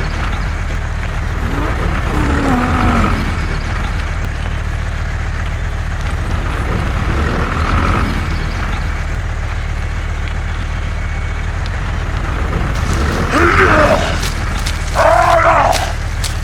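A few short voice calls, the loudest two near the end, over a steady low rumble.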